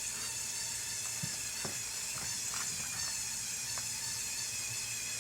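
Lego Technic tractor's electric motors and gear train running steadily under load as it drags the weighted pull sled, a constant whirring hiss with a few faint clicks about a second in. It sounds like it is about to die but keeps pulling.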